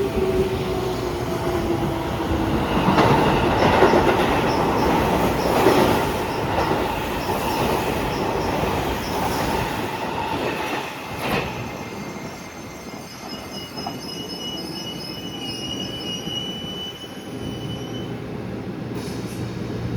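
Electric train on the station tracks: its motor whine falls in pitch at the start, then the wheels clatter over rail joints loudest a few seconds in and the sound fades away. A thin high wheel squeal comes near the middle.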